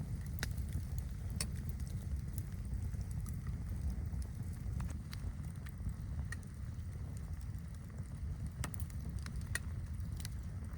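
Campfire crackling, with irregular sharp pops, over a steady low rumble of wind.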